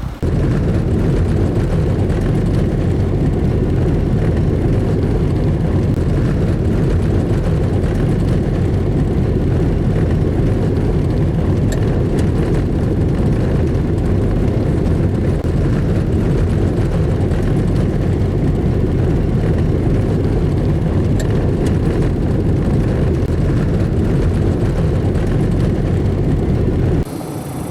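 Steady drone of a light aircraft's engine heard from inside the cabin, an added sound effect laid over silent film; it starts abruptly and cuts off suddenly near the end.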